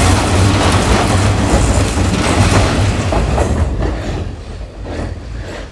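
Hanshin Main Line electric train running past loudly, its wheels clattering on the rails. The sound starts fading away about three and a half seconds in.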